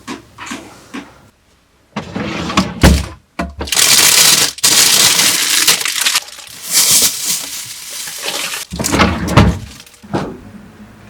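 Food packaging being handled while a fridge is emptied out, with loud crinkling in several bursts and a dull knock about three seconds in.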